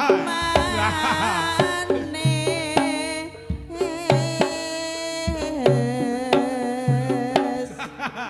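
Live Javanese dance accompaniment: sharp hand-drum strokes over sustained, wavering melodic instruments and voice, growing quieter near the end.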